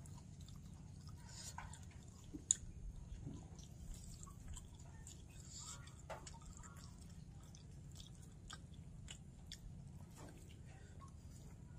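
A person chewing food close to the microphone, with scattered wet mouth clicks and one sharp tap about two and a half seconds in, over a low steady hum.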